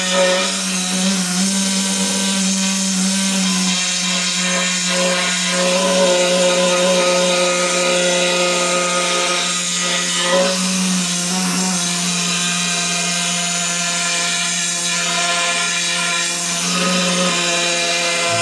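Needle scaler running continuously, its needles hammering hardened concrete off the steel of a skid steer concrete bucket, a loud steady buzzing rattle.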